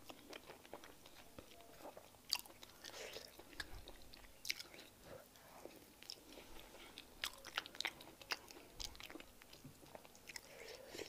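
Close-up wet chewing and mouth sounds of someone eating fufu with peanut soup by hand, with many short sharp lip and tongue clicks scattered irregularly.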